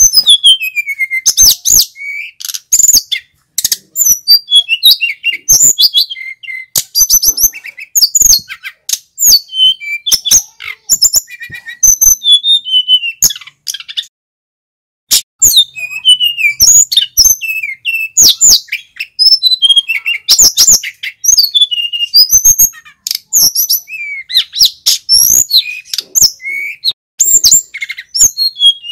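Male sikatan gunung (tledekan gunung, a flycatcher) singing loudly in a long, rapid run of high chirps, whistled notes and trills, pausing for about a second near the middle before carrying on.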